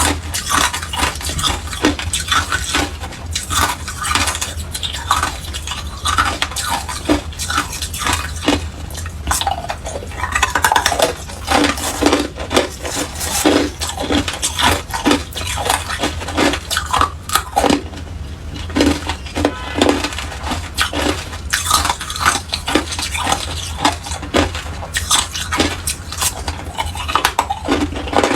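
Hard clear ice being bitten and chewed close to the microphone: a dense run of sharp cracks and crunches, with a steady low hum underneath.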